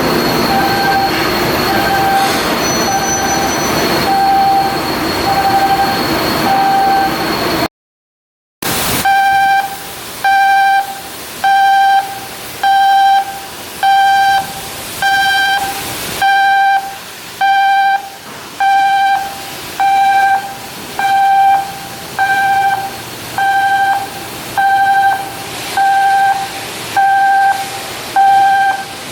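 Electronic warning beeper sounding a single steady tone about once a second, over a noisy machinery background in the first part. The sound cuts out for about a second a third of the way in, then the beeping carries on more clearly.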